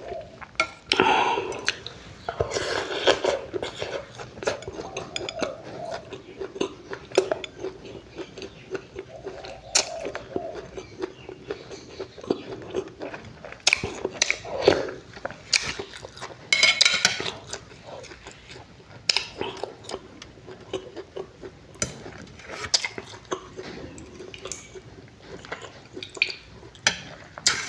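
Close-up chewing and mouth sounds of a person eating sea fish roe dressed in fermented-fish seafood dipping sauce, with irregular small clicks and an occasional spoon clink on the dish.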